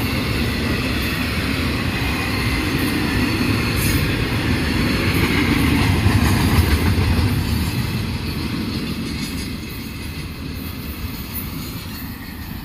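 Florida East Coast freight train rolling past on the rails: a steady rumble of wheels with a few clicks from the rail joints, fading away over the last few seconds.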